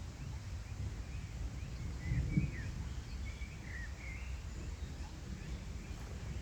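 A steady low rumble with several short bird chirps in the middle, about two to four seconds in.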